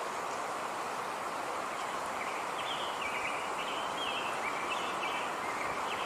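Steady outdoor background noise with a small bird chirping in short, quickly repeated notes from about two seconds in.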